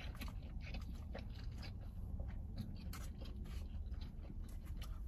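Close-miked chewing and mouth noises of a person eating a meal, with irregular small clicks.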